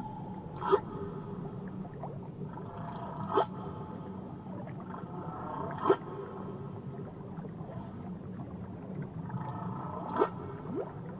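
Whale song heard underwater: drawn-out tonal moans with four short, sharp sweeping cries spaced a few seconds apart, over a steady low underwater rumble and hiss.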